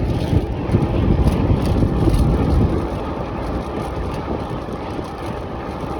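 Wind rushing over the microphone and tyre rumble from a bicycle being ridden along a bumpy path, louder over the first two and a half seconds, then steady.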